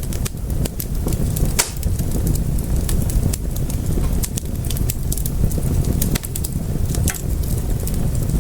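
Wood fire crackling: irregular sharp pops and snaps over a steady low rumble, with one louder pop about one and a half seconds in.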